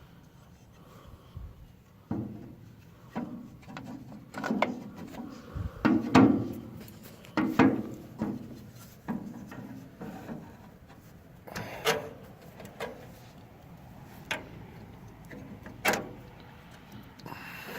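Irregular knocks, clicks and scraping of hand tools and metal parts being handled on a 1942 Ford 9N tractor's front-mounted distributor, with a few sharper clicks.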